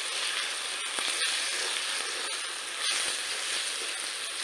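Tomato and onion masala with ground spices sizzling in hot oil in a kadhai, a steady hiss. A metal slotted spatula stirring it scrapes and clicks against the pan a few times.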